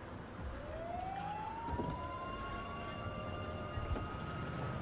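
A siren winding up: one tone rising in pitch over about two seconds, then holding steady, over a low rumble.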